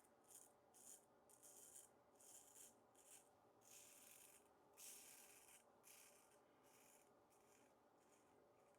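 Iwasaki tamahagane straight razor scraping through lathered stubble in a run of short, faint strokes, a few a second.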